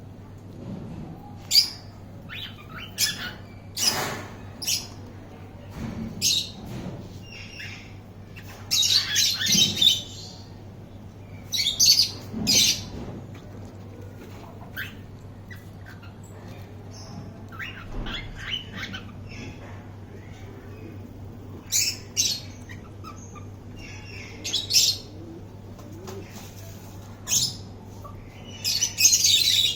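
Cockatiels calling: scattered short chirps and squawks, with louder bursts of several calls together about nine, twelve and twenty-nine seconds in.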